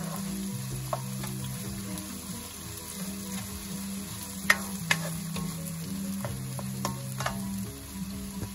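Chopped onion sizzling in oil in a nonstick pan over low heat, stirred with a spatula that scrapes and taps against the pan now and then; the sharpest taps come about four and a half and five seconds in.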